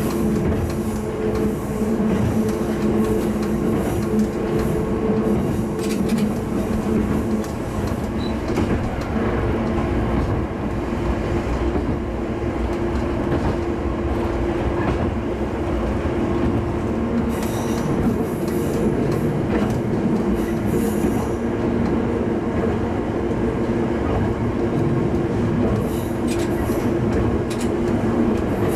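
Diesel railcar running at speed, heard from inside the car: a steady engine drone over the rumble of wheels on rail, with occasional brief clicks.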